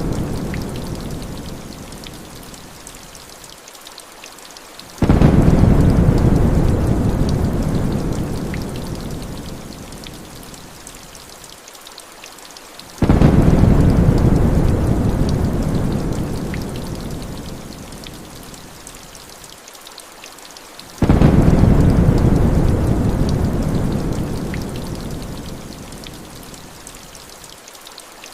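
Heavy rain falling steadily, with a deep rumble of thunder starting suddenly about every eight seconds and fading away; three such rolls begin, after the dying end of an earlier one.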